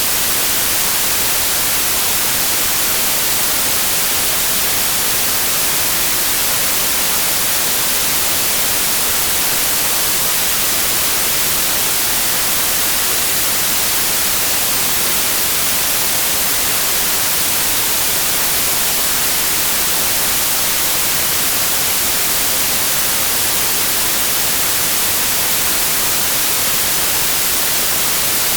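Synthetic white noise test signal: a steady, unbroken hiss at constant level, with no change in pitch or loudness.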